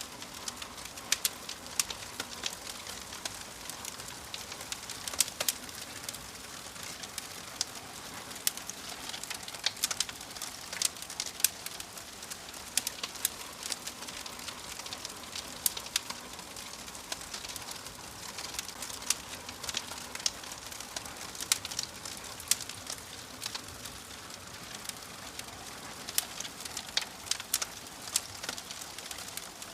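Wood fire burning in a fireplace, crackling: a steady soft hiss with frequent sharp, irregular pops and snaps.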